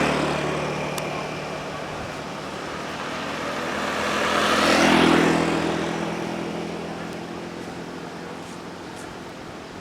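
An engine running steadily while a road vehicle passes close by, growing louder to a peak about five seconds in and then fading away.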